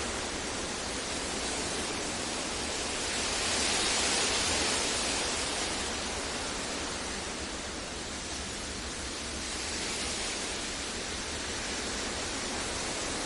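Steady synthetic masking noise for sleep and focus: an even, full-range hiss with no tones or events, slowly swelling and easing in level.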